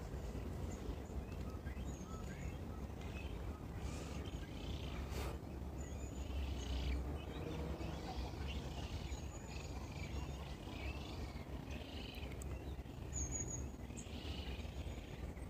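Birds chirping and calling, many short high chirps and now and then a brief high whistle, over a steady low rumble.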